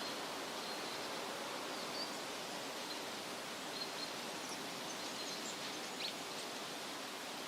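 Steady wind rustling through leafy trees, with faint, brief bird chirps scattered through it.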